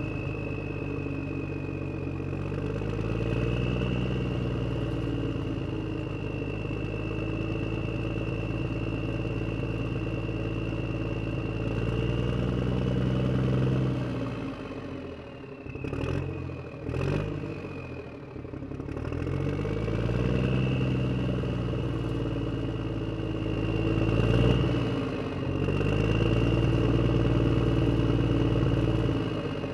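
Vehicle engine running and revving up and down in slow swells, with a steady high whine above it; the sound dips and breaks up briefly about halfway through.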